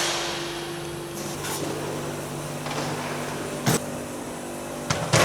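Steady mechanical hum from a machine running in a workshop, cutting off about two-thirds of the way through with a sharp click, then a couple of light knocks near the end.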